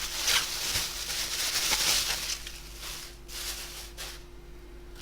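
Rustling and crinkling of plastic food packaging being handled, busiest in the first couple of seconds and then a few short rustles about three seconds in, over a faint steady electrical hum.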